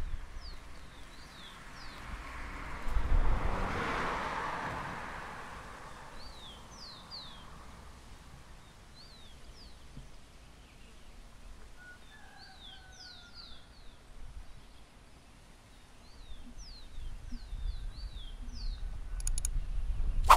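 Small birds chirping outdoors, many short high calls that fall in pitch, repeated all through. About three to five seconds in, a swell of rushing noise rises and fades.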